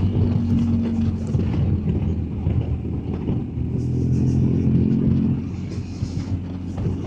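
BMW R1250GS Adventure's boxer-twin engine running while the bike is ridden, with wind and road noise. The engine note shifts in pitch and eases off for a moment about six seconds in.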